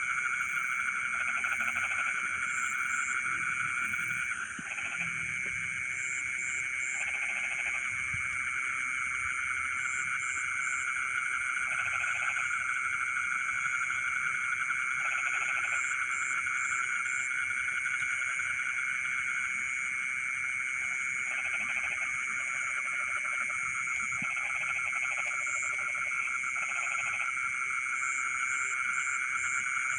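Night chorus of rice-paddy frogs: a steady, dense calling with short bursts of croaks every few seconds. High chirps come in groups of two or three throughout.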